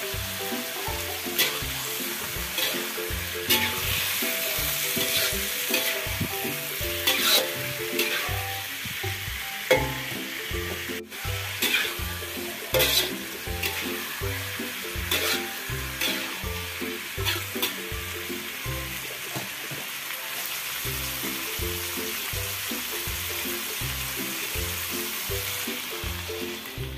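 Yellow tofu and red chilies sizzling in oil in a wok, stirred with a metal spatula that scrapes and clatters against the pan now and then. Water is poured in near the end. Background music with a steady beat runs underneath.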